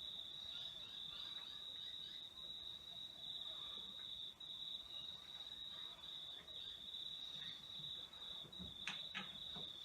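An insect trilling steadily in a high, even pitch, in long runs of rapid pulses broken by short pauses. A few faint knocks come near the end.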